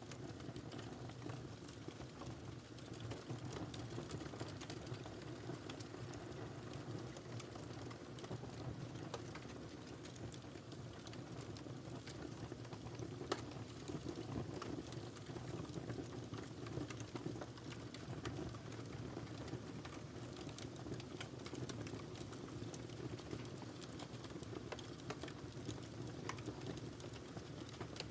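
Wood fire crackling in a fireplace: a steady low rumble dotted with many small, irregular pops and snaps, with one sharper pop about 13 seconds in.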